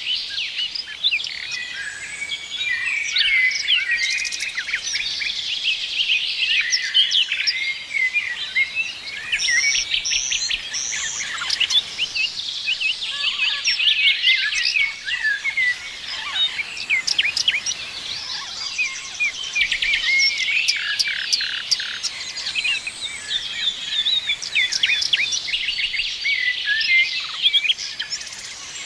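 A chorus of several songbirds singing and chirping at once: dense, overlapping high chirps, short whistled glides and quick runs of repeated notes, with no pause.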